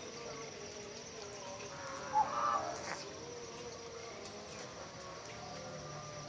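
A single short bird call about two seconds in, over a steady background of faint insect chirring.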